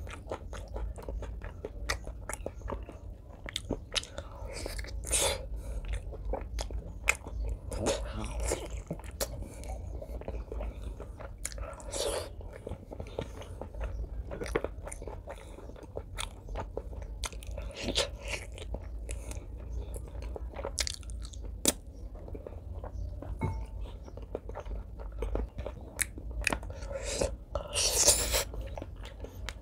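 Close-up sound of a person chewing and biting braised pork leg: a steady run of wet chewing and small mouth clicks, with fuller bites every few seconds and the loudest bite near the end.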